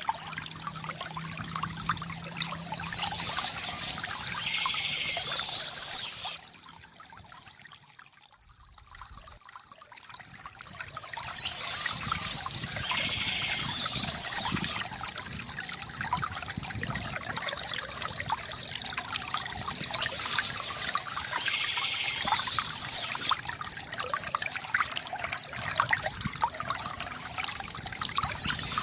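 Small stream trickling and splashing steadily. It drops much quieter for a few seconds about a quarter of the way in, then comes back.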